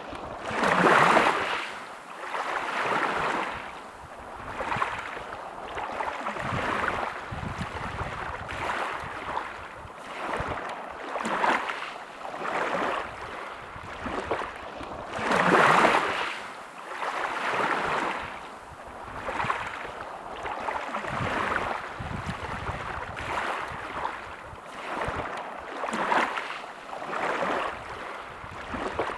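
Sea waves breaking and washing up a beach, a surge of surf every two seconds or so, with bigger breakers about a second in and about halfway through.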